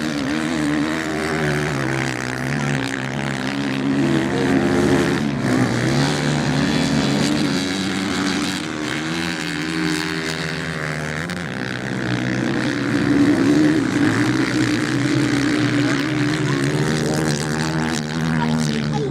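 Several racing motorcycle engines running together, their pitch rising and falling as the bikes accelerate and ease off.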